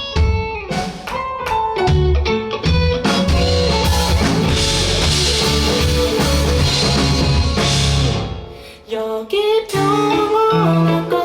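Live band playing an instrumental passage: guitar over bass and drums, with a cymbal wash building in the middle, a brief drop around eight seconds in, then the guitar picking back up.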